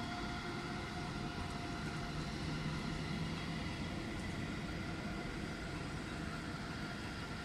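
A DB Intercity passenger train, with white coaches behind a red electric locomotive, rolls past at a distance with a steady rumble of wheels on the track. A faint whine fades away over the first few seconds.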